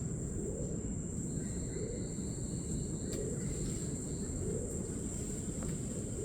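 A steady, high-pitched insect drone over a continuous low rumbling noise outdoors.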